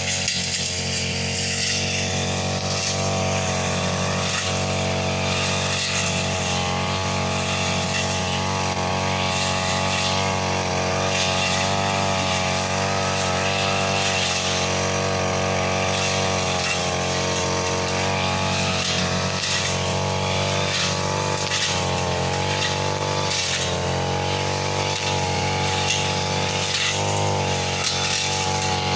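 Brush cutter engine running at high speed as it cuts grass, its pitch dipping and recovering now and then under load, with a rapid clatter of the cutting head striking vegetation.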